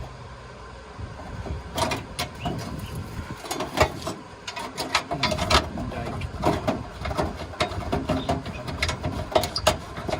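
Irregular metal knocks, clanks and rattles of a steel exhaust mid pipe being manoeuvred and seated under a car, thick and frequent from about two seconds in.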